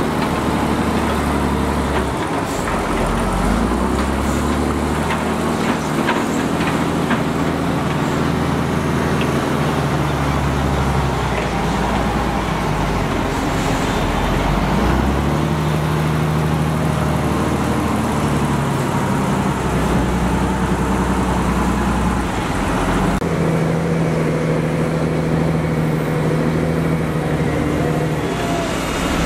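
Heavy diesel earthmoving machinery running and working, the engine note rising and falling under changing load, with scattered sharp clanks in the first third. The sound changes abruptly about three-quarters of the way through.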